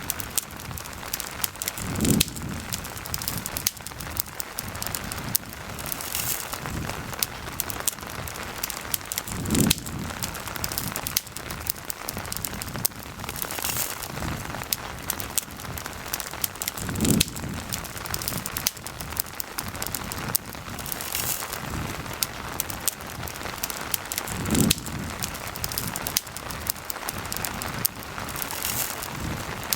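Steady rain mixed with a campfire crackling and popping in many small sharp clicks, with a soft low thump recurring about every seven and a half seconds.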